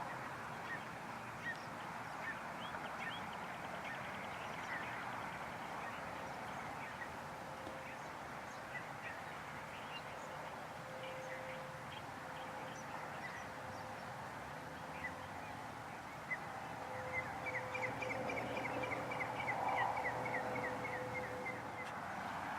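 Outdoor bird chorus: many short chirps and calls over a steady background hiss, with a quick run of repeated notes near the end.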